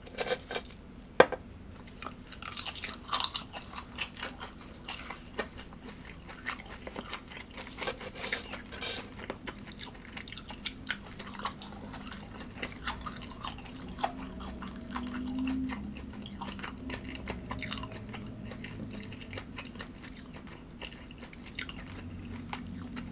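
A person chewing and crunching food close to the microphone, in irregular bites and crackles, with a sharp click about a second in.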